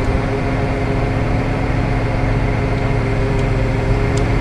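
Tow truck's engine running steadily under load while its winch pulls a car in on the cable: a constant drone with a steady hum.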